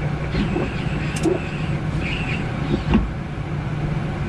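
Steady Boeing 787-9 flight-deck noise on approach: rushing airflow with a constant low hum, a few faint brief sounds, and a soft knock about three seconds in.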